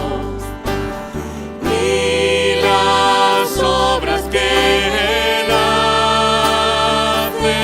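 Hymn sung by a church congregation with instrumental accompaniment, sustained bass notes under slow, held sung lines.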